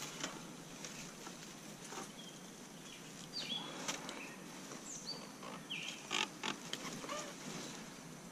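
Faint woodland ambience by a stream: short bird chirps, a steady high thin whine, and scattered clicks and rustles close to the microphone, the loudest about six seconds in.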